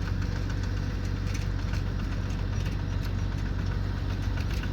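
Combine harvester engine running steadily, a low, even hum with mechanical clatter over it.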